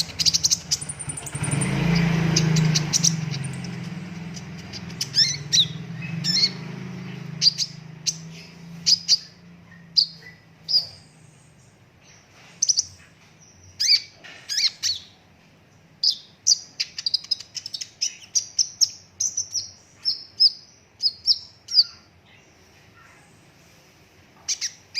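Kolibri ninja (purple-throated sunbird) singing: rapid, sharp high chirps and short trills in bursts with brief pauses, thickest in the second half. A low rumbling noise, the loudest sound, swells in the first few seconds and fades away.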